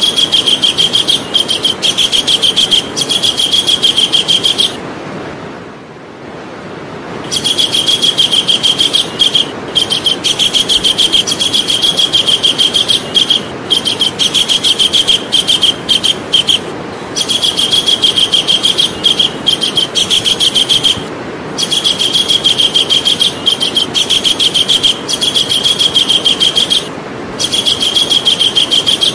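Javan kingfisher calling in long runs of fast, evenly repeated shrill notes, each run lasting several seconds. There is a break of about two seconds five seconds in, and shorter breaks later.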